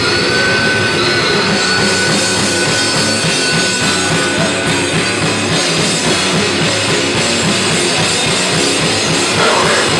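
Death metal band playing live at full volume, with fast, dense drumming on the drum kit driving a heavy, distorted mix.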